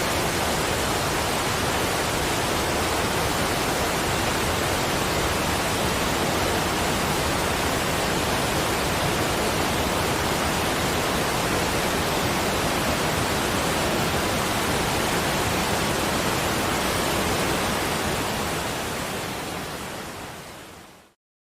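Steady rushing water, an even hiss with no chimes or other tones, fading out over the last few seconds into silence.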